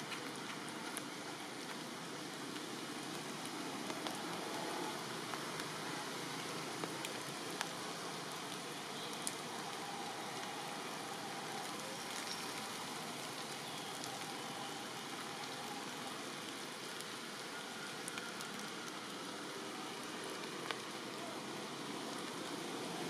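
Steady rain falling, an even hiss with occasional sharper drop ticks scattered through it.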